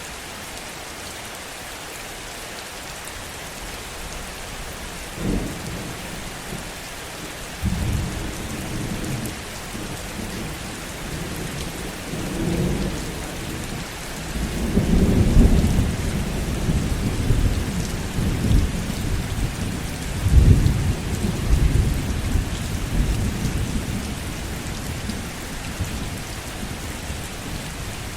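Heavy rain falling steadily, with a long roll of thunder that starts with a sharp crack about five seconds in and swells into a low, rolling rumble through the middle of the stretch before fading back under the rain.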